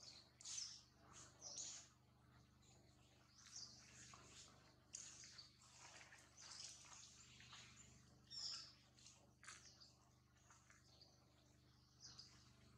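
Faint, scattered high-pitched bird chirps over a quiet outdoor background.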